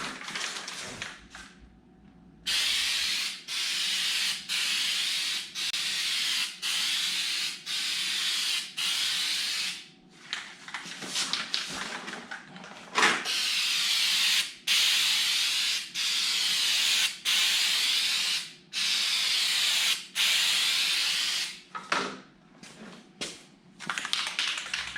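Aerosol spray can of coating being sprayed in a long series of short hissing passes, each about a second long with brief gaps between.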